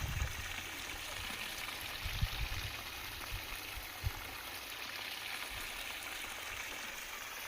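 Steady rush of flowing water from a small stream, with a few short low thumps about two and four seconds in.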